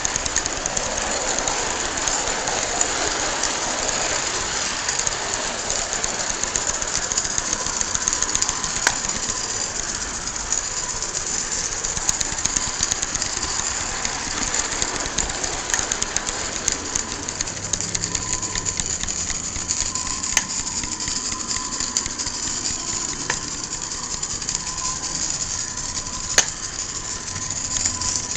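Live-steam garden-scale Shay locomotive running under steam, a continuous hissing exhaust with many small clicks. A faint steady tone comes in about halfway through.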